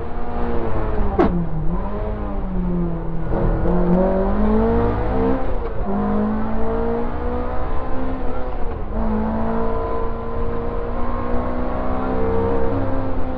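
Opel Ascona 400 rally car's 2.4-litre 16-valve four-cylinder engine heard from inside the cockpit, accelerating hard: the revs climb and drop back at upshifts about three, six and nine seconds in. About a second in there is a brief sharp dip in pitch before the revs climb again.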